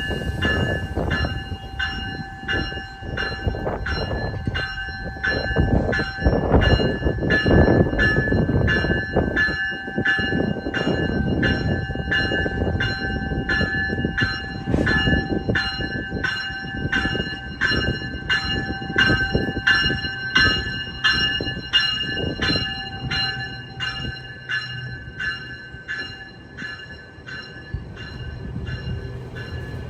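GO Transit commuter train pulling out of the station, its warning bell ringing steadily a little under two strokes a second over the rumble of the locomotive and passenger cars. The rumble eases near the end while the bell keeps ringing.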